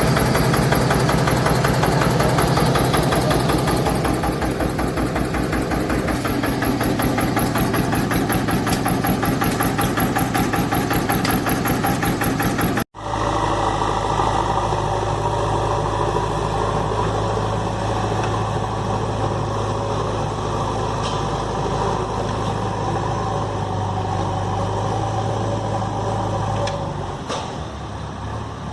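A vehicle engine running steadily with a rapid, even firing beat. About 13 seconds in it cuts off abruptly and is replaced by another steady engine sound, which eases off near the end.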